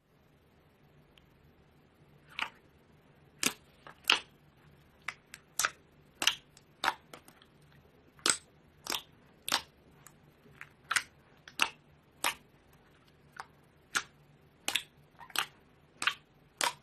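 Slime being squeezed and poked, giving sharp, short clicking pops at an irregular pace of about one to two a second, starting about two seconds in.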